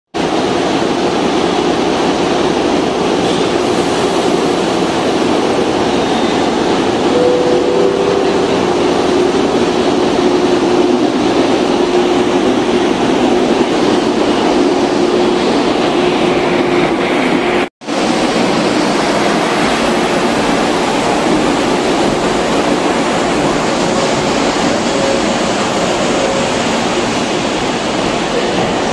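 413-series electric train pulling out of the station and rolling past close by: a steady rushing noise with a faint hum from the train. The sound drops out for an instant about two-thirds of the way through.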